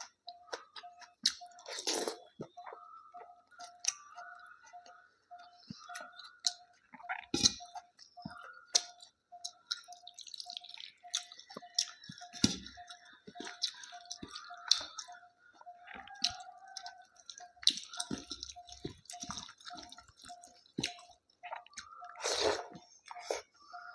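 Close-up eating sounds: chewing and wet mouth sounds, with many sharp clicks and taps scattered throughout, and two longer, noisier bites about 2 seconds in and near the end. A faint, even ticking runs underneath, a little under twice a second.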